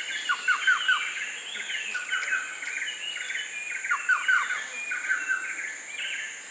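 Rainforest ambience: a steady high insect drone under a chorus of chirping birds. One bird repeats short falling whistled notes in groups of three or four, about three times.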